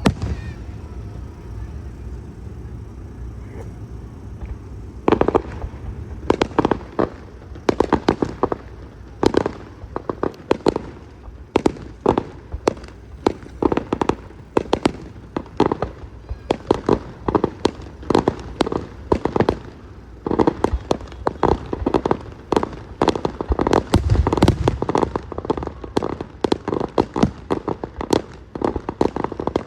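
Fireworks display: a single bang, then from about five seconds in a dense, unbroken run of bangs and crackles, several a second, with a heavier boom about three quarters of the way through.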